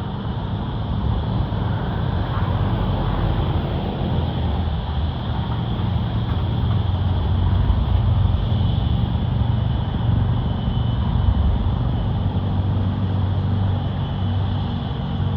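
Steady low rumble and hiss of an Airbus A330-343 airliner and its Rolls-Royce Trent 700 engines, slowly growing a little louder.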